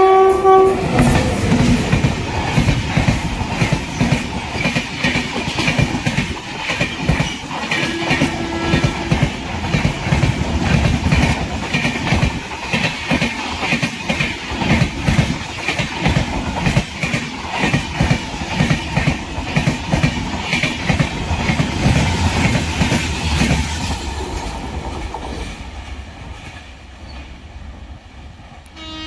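Electric express train, a WAP-7 locomotive hauling LHB coaches, passing at speed close by. A long run of rapid wheel clicks over the rail joints goes on as the coaches rush past, then fades over the last few seconds as the end of the train draws away.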